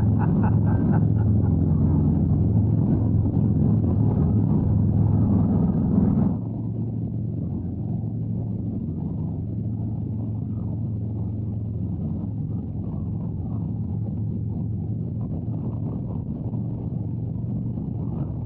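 Harley-Davidson Road Glide's V-twin engine and exhaust running steadily under way. About six seconds in, the sound drops noticeably quieter and stays at the lower level.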